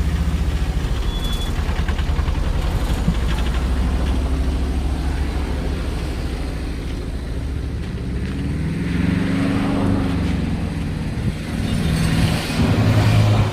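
Diesel truck engine running steadily, then changing pitch about nine seconds in and getting louder near the end.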